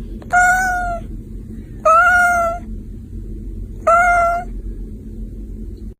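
Kitten meowing three times, high-pitched calls of about a second each, spaced roughly two seconds apart, over a steady low background hum.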